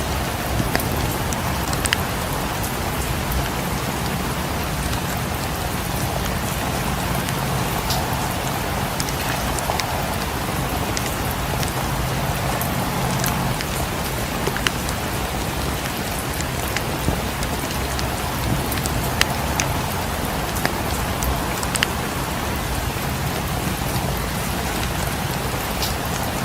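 Steady rain falling: a constant hiss with scattered sharp ticks of drops.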